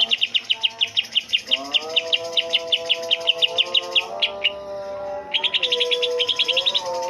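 Cucak ijo (green leafbird) calling in a fast run of sharp repeated notes, about eight a second. It pauses after about four and a half seconds and starts again near the end.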